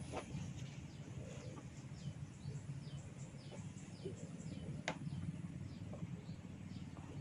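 Small birds chirping with many short, high, falling calls over a steady low rumble. A few sharp snaps break through, the loudest about five seconds in, likely hair being cracked during a head massage.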